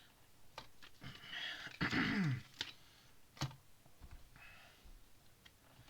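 Plastic Lego pieces being handled: a few sharp clicks and a rustling rattle, with a short low falling throat sound about two seconds in.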